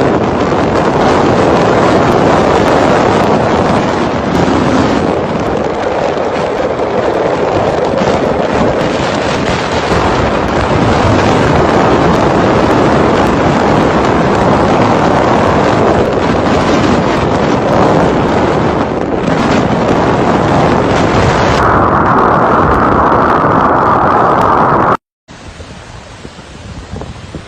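Hurricane-force wind blasting across the microphone in a continuous loud rush. It shifts in tone about three-quarters of the way in, cuts out briefly, and returns quieter.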